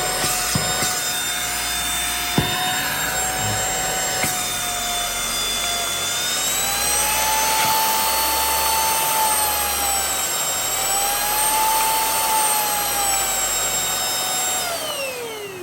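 Cordless handheld vacuum cleaner's motor running with a steady high whine, its pitch rising and falling twice midway, then winding down with a falling pitch near the end as it is switched off. A few handling clicks come in the first seconds.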